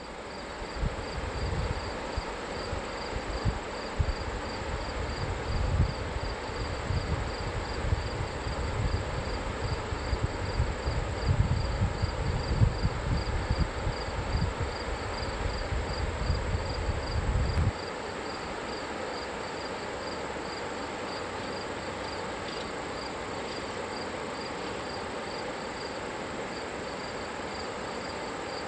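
Steady rush of falling river water, with an insect chirping in a high, even pulse about twice a second. A gusty low rumble underneath cuts off suddenly about two-thirds of the way in.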